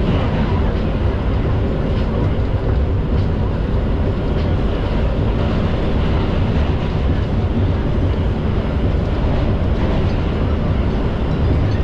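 Steady rumble and rail noise heard inside an R142 subway car running between stations.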